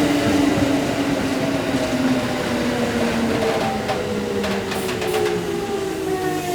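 Electric commuter train slowing into a station: its traction motors hum in several tones that slowly fall in pitch over the running rumble of the wheels, showing the train braking. A few sharp clicks come about four and a half to five seconds in.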